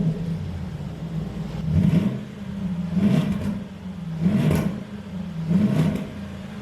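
Range Rover Vogue's engine idling through a custom variable-valve exhaust with the exhaust valve closed, blipped four times in even succession, each rev rising and falling back to idle.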